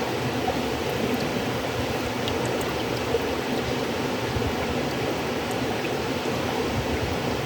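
River water flowing steadily: an even, unbroken rushing sound.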